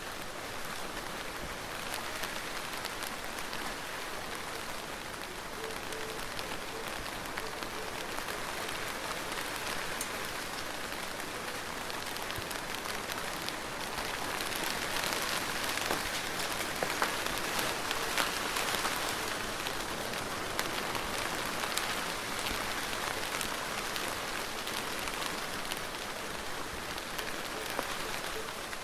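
Soft, steady rain falling on a surface, an even hiss with fine patter of individual drops, swelling a little for a few seconds around the middle.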